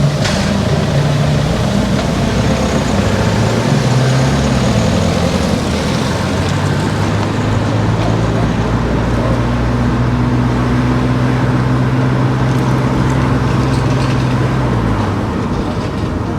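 Car driving on town streets: engine and road noise, with the engine note rising and falling around four seconds in, holding steady, then dropping near the end as the car slows.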